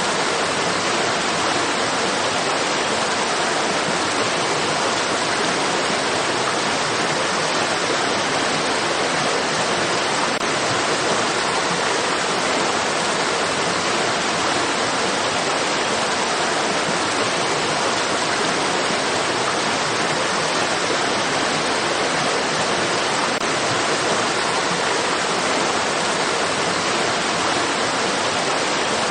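Running water of a stream, a steady, even rush with no breaks or changes.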